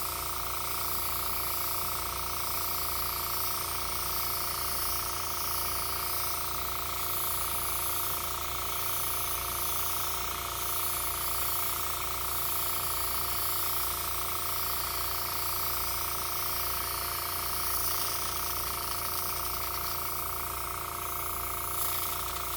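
Airbrush compressor running with a steady hum while the airbrush hisses as it sprays paint, the hiss swelling and easing every second or two as the spraying goes on and off.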